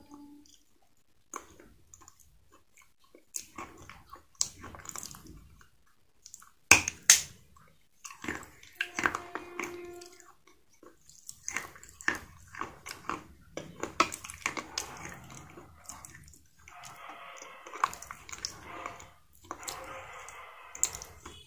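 Close-miked chewing of crunchy food: irregular sharp crackling bites and wet mouth sounds. The loudest crunches come about seven seconds in.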